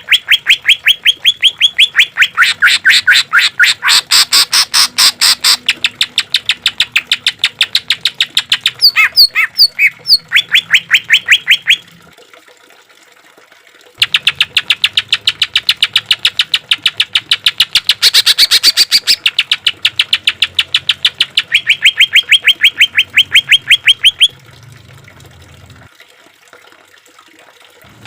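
Greater green leafbird (cucak ijo) singing rapid runs of sharp, evenly repeated notes. The runs break off for a couple of seconds about twelve seconds in, and the song goes quiet again near the end.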